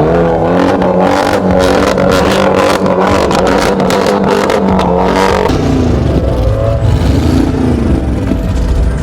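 Car engine revved up and held at high revs for about five seconds, then let back down, with another short rise and fall in revs near the end.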